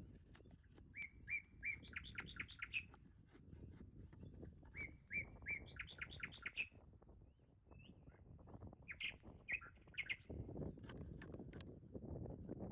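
A small songbird sings the same short phrase twice: a few even notes, then a quick run of higher notes. A few shorter calls follow. Underneath are faint clicks and a low rustling that grows louder near the end.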